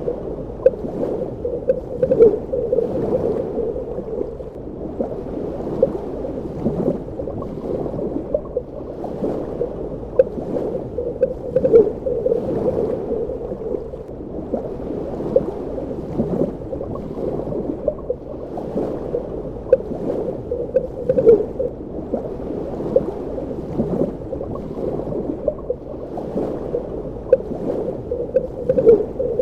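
Muffled underwater water ambience: a dense, low churning with small bubbly gurgles and pops, swelling and easing every several seconds.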